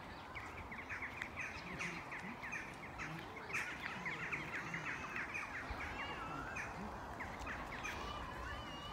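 Small birds chirping, with quick runs of short high chirps through most of the stretch and a few wavering whistled notes in the last few seconds, over a steady outdoor background hiss.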